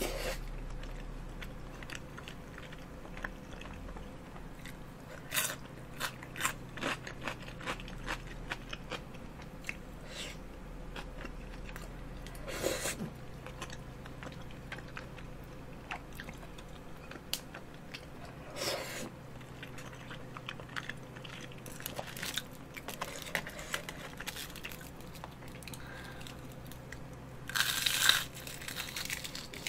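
Close-miked eating: wet chewing of spicy carbonara tteokbokki rice cakes, with many small mouth clicks and a few louder smacks. Near the end comes the loudest sound, a crunchy bite into a battered fried squid ring.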